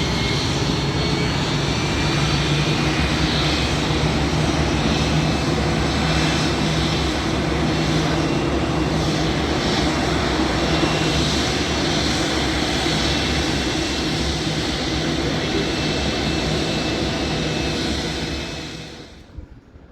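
Airbus A320-214's CFM56-5B turbofan engines at takeoff power: a loud, steady jet rumble with a thin high whine. It cuts off abruptly near the end.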